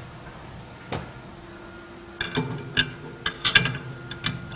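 Metal clicks and clinks of a router bit and its tool holder being handled during a cutter change on a CNC machine, with one click about a second in and a run of them in the second half, ending in a louder knock. A faint steady hum lies under it.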